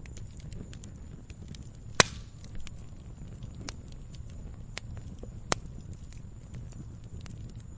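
Wood fire burning, with a steady low rumble and scattered small crackles, and two sharp pops from the burning logs, the loudest about two seconds in and another about five and a half seconds in.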